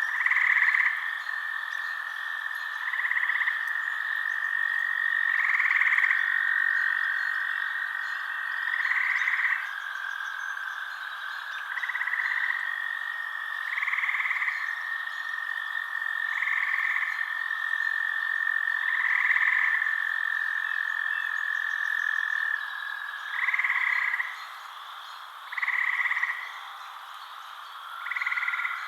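Frogs calling in a night chorus: a short call repeats about every two to three seconds over a continuous high, steady trill.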